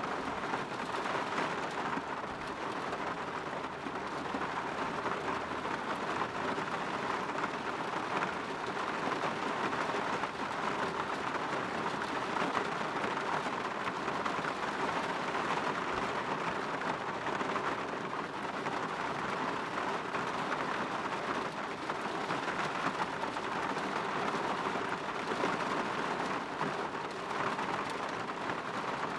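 Steady rain falling against a window, a dense, even patter with no let-up.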